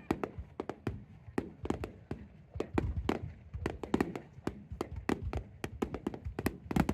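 Fireworks going off: a rapid, irregular string of sharp pops and crackles, with heavier low booms in the middle.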